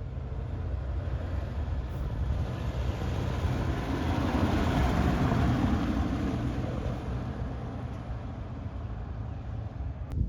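A car driving past: its engine and tyre noise swell to a peak midway and then fade, over a steady low rumble.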